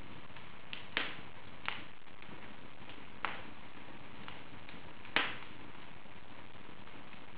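Wood fire burning in an open fireplace: a steady crackle with sharp pops, four louder ones, the loudest about five seconds in.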